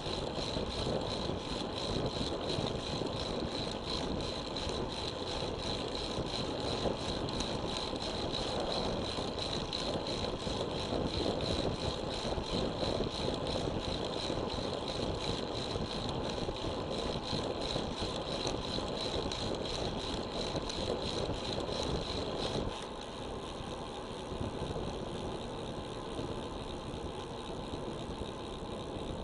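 Steady wind rush and road noise from a moving road bicycle, picked up by a bike-mounted action camera. A high steady tone runs along with it and cuts off about 23 seconds in, after which the noise is a little quieter.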